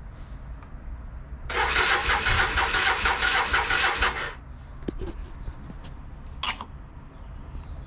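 Hyosung GV Aquila 125's electric starter cranking the engine for nearly three seconds, from about a second and a half in, without it firing. It stops suddenly, and there is a short click near the end. The battery hasn't enough charge to turn it over fast enough to start.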